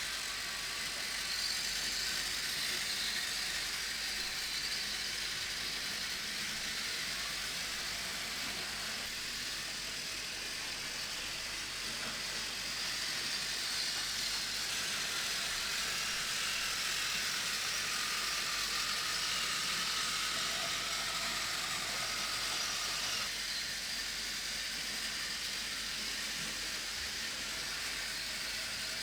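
Battery-powered Plarail toy trains running on plastic track: a steady small-motor whir with a hiss.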